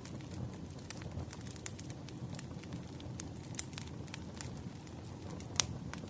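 Wood fire crackling: irregular small pops and snaps over a steady low rumble, with one louder pop near the end.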